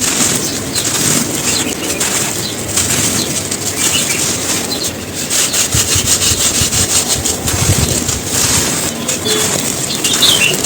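Dry, gritty cones crunching and crumbling as they are crushed: a dense, continuous run of crackles and gritty crunches.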